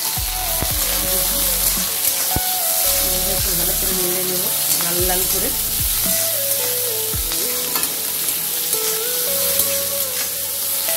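Sliced onions and chopped green chilli sizzling in hot oil in a steel wok, stirred with a steel spatula that clicks and scrapes against the pan now and then.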